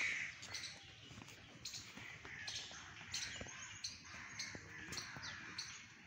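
Birds chirping and calling in short, scattered notes, with a louder call right at the start.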